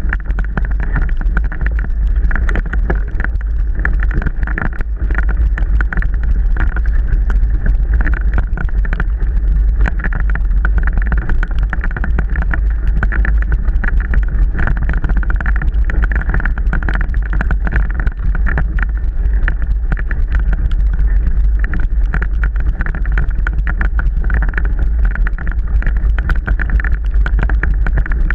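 Mountain bike ridden over rough, wet trail: a constant low rumble of wind on the microphone, with rapid rattles and knocks from the bumps running throughout.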